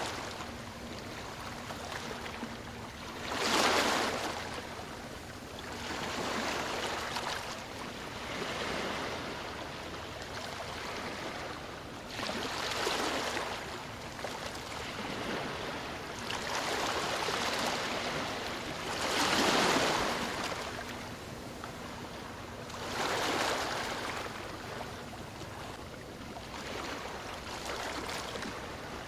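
Ocean waves washing onto the shore, one surge every few seconds over a steady rush of surf.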